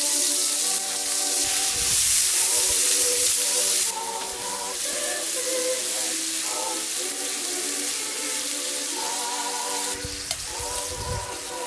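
Slices of frozen pork belly sizzling on a grill over a hot wood fire, a loud steady hiss that drops noticeably about four seconds in. Background music plays throughout.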